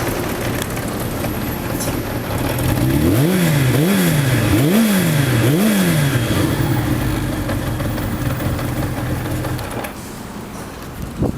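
Kawasaki Zephyr 750 air-cooled inline-four idling through a Yoshimura aftermarket exhaust, blipped four times in quick succession about three seconds in, then settling back to idle. The engine note cuts off near the end.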